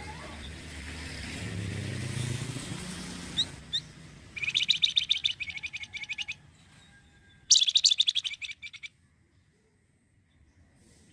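Flamboyan songbird singing two bursts of rapid, chattering high notes, the second one loud and short, after a few quick chirps. A rushing noise with a low rumble fills the first few seconds and then fades.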